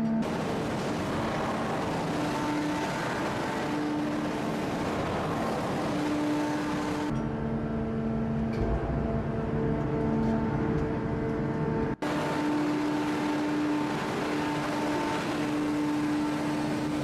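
Heavy hydraulic forging press plant running: a steady machine drone with several constant tones from the hydraulic pumps. A loud hiss lies over it for the first seven seconds or so and again from about twelve seconds on. The sound cuts out for an instant at about twelve seconds.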